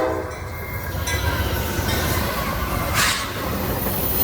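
Train rolling past with a steady rumble and rail noise. Its horn cuts off just as the sound begins, and a brief sharper rattle of noise comes about three seconds in.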